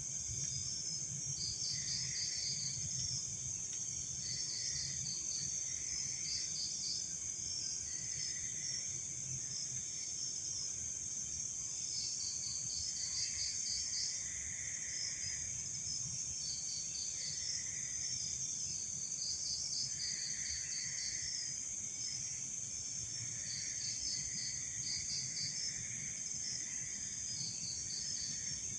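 Chorus of night insects: a steady high-pitched drone, with crickets' pulsed trills coming in short bursts and a lower call repeating every second or two.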